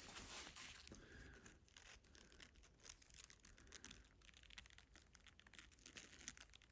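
Faint handling noises: a run of small clicks, scrapes and rustles, with no steady machine sound.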